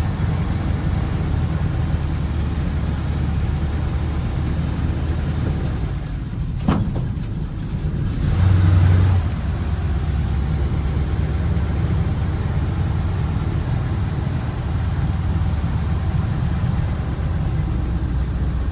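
1955 Chevrolet 3200 3/4-ton pickup's engine running steadily as the truck is driven. About a third of the way in there is a single click, and shortly after the engine briefly runs louder with a short burst of revving, then settles back to steady running.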